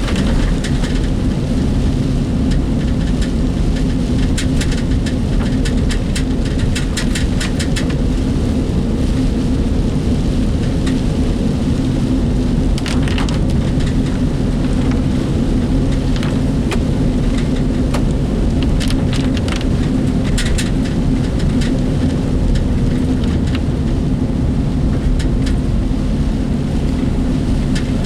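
Heard from inside a work vehicle's cabin while driving in typhoon rain: a steady low road and engine rumble with rain hissing on the body. Several runs of quick rattling clicks come from the work vehicle's loose fittings.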